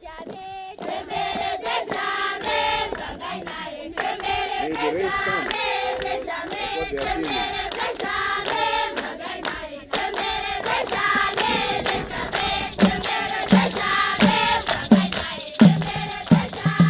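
Children singing together in chorus, a traditional Zimbabwean rain-dance song, with sharp hand claps throughout. Low rhythmic thumps join about three-quarters of the way through and come faster toward the end.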